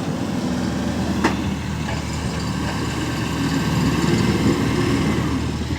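Heavy diesel engine running hard under load while straining to pull a stuck gravel truck free, with a short sharp knock about a second in.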